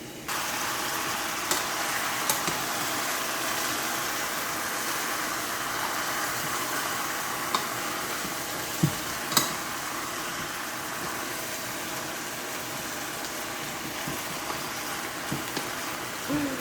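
Chicken adobo sizzling in a hot pot: a steady hiss that starts suddenly just after the start and slowly eases, with a few sharp clicks and knocks.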